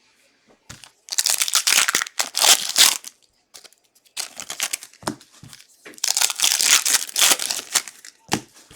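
Plastic trading-card packaging being torn open and crinkled, in two spells of a couple of seconds each with a few light knocks between them.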